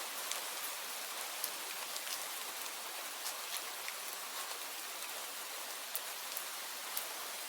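Steady rain falling, an even hiss dotted with many individual drops ticking sharply on a surface; two drops land a little louder, about six and seven seconds in.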